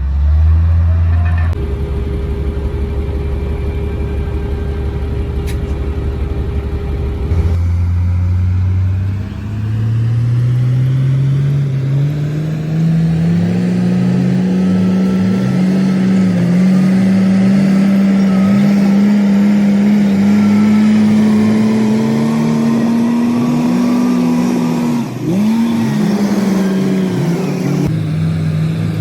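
Komatsu D58P bulldozer's diesel engine running, idling low for the first several seconds, then revving up from about eight seconds in and holding at high revs with the pitch wavering, dipping briefly near the end.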